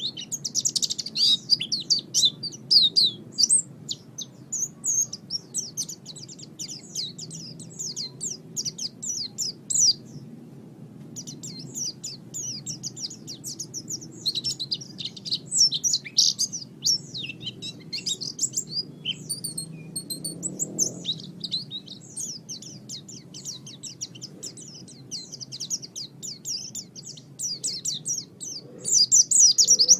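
White-eye (pleci) singing a fast, unbroken stream of high twittering chirps, with a brief pause about ten seconds in, over a faint low background hum.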